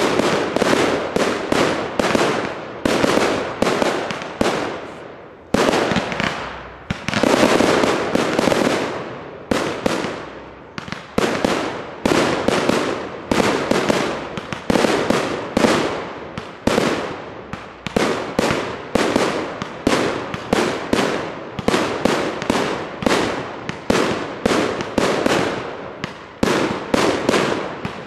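Aerial fireworks bursting one after another, several sharp bangs a second with no real pause. There is one short gap about five seconds in.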